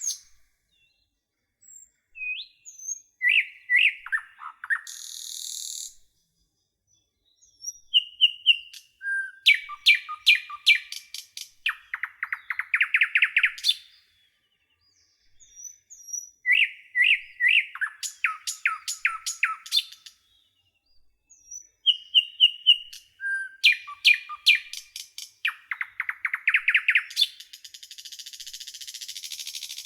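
A songbird singing a varied phrase of clear whistled notes, rapid trills and a buzzy rasp, repeated several times with short silent pauses between the phrases.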